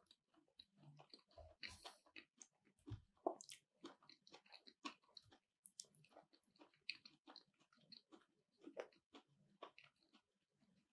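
Faint, close-miked chewing: irregular soft mouth clicks and wet smacks of someone eating, with one sharper click about three and a half seconds in.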